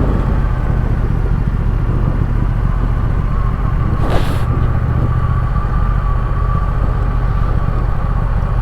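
Triumph Speed Twin motorcycle's parallel-twin engine running steadily on the move, with a heavy low rumble and a thin steady whine above it. A brief hiss cuts in about four seconds in.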